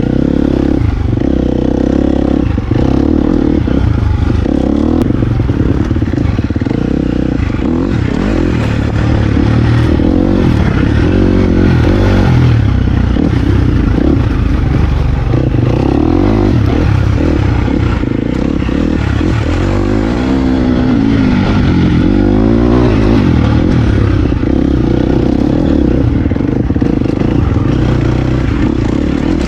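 Dirt bike engine running while riding, the throttle opening and closing so the pitch rises and falls; it sweeps up and down several times about twenty seconds in.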